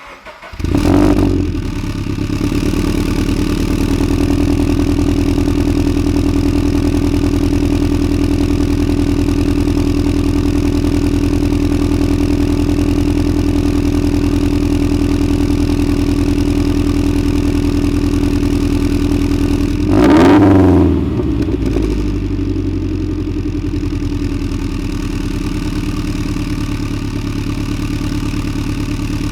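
Subaru BRZ's 2.0-litre flat-four boxer engine with an unequal-length header fires up about a second in and settles into a steady idle, with one brief rev blip about two-thirds of the way through. The unequal-length header gives it the uneven boxer rumble.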